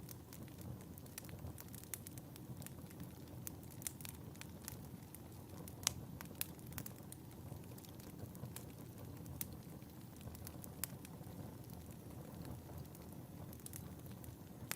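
Wood fire burning in a fireplace: a low, steady rush of flame with frequent irregular crackles and pops, the sharpest pop about six seconds in.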